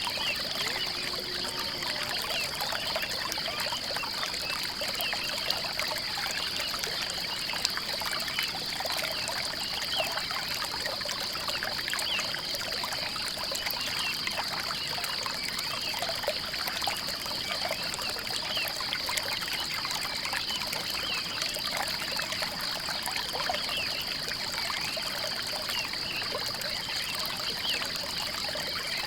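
Water trickling steadily, with a continuous high-pitched, finely pulsing drone above it.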